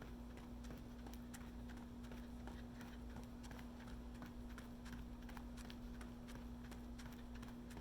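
Running footsteps: a steady rhythm of light footfalls, with a constant low hum underneath.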